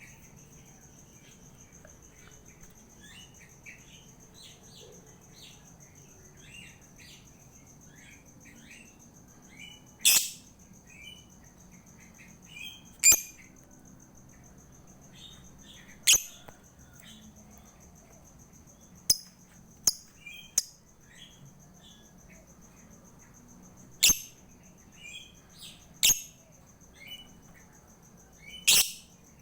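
Lovebird calling: a run of soft, quick chirps broken by about nine sharp, shrill calls at irregular intervals, over a steady high-pitched whine.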